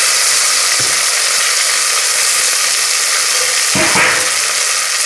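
Cauliflower florets sizzling in hot ghee in an aluminium pressure cooker: a steady frying hiss. A slotted steel spatula knocks against the pot about a second in and again, louder, near four seconds.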